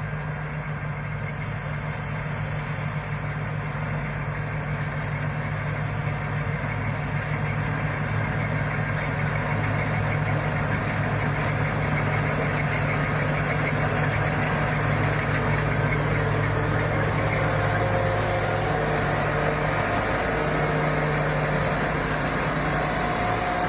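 Combine harvester's engine running steadily, growing slightly louder over the first half.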